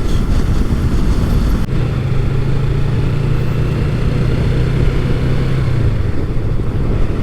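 Yamaha MT-03 motorcycle cruising at a steady speed, engine running at an even note under heavy wind rush on the microphone. About two seconds in, the engine hum comes through more clearly and holds steady until near the end.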